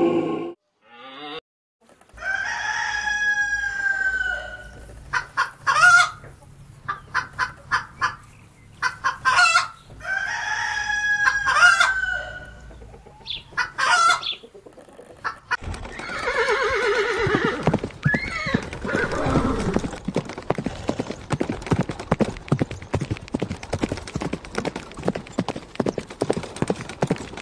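Rooster crowing twice, each crow a long drawn-out call, with short clucks between the crows. After about fifteen seconds it gives way to a busier stretch of rapid, dense pulsed sound.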